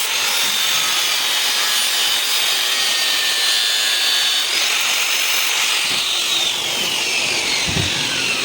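Power tool abrading a metal shaft: a steady rasping grind with a faint whine, and from about halfway through a whine falling steadily in pitch as the tool winds down.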